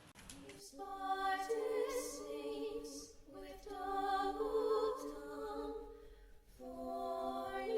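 Unaccompanied singing of a slow melody in long held notes, in three phrases, the first starting about a second in.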